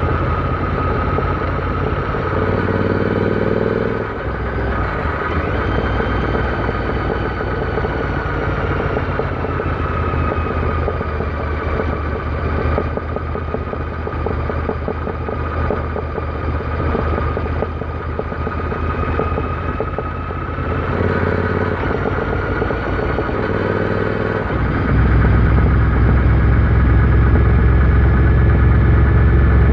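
Royal Enfield Interceptor 650's parallel-twin engine running while the motorcycle is ridden. Its note shifts at about 4 and 21 seconds in, and it gets louder and deeper about 25 seconds in as the throttle is opened.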